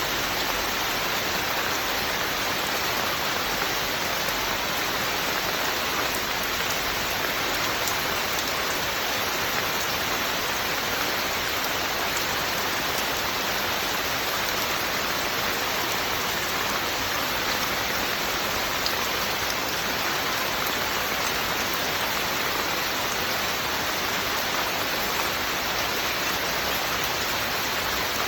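Steady, heavy rain falling in an even hiss, with no distinct drops or thunder standing out.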